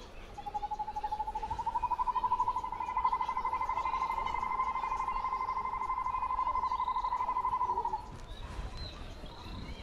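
A bird's long, fast trill held at one steady pitch for about seven and a half seconds. It climbs slightly at the start and stops abruptly.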